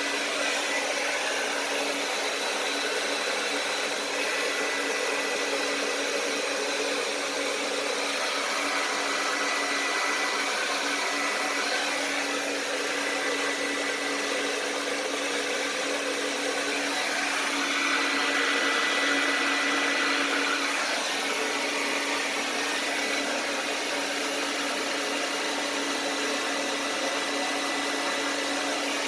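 Hand-held hair dryer running steadily, a continuous rush of air over a low motor hum with a faint whine. It swells a little louder for a couple of seconds about two-thirds of the way through.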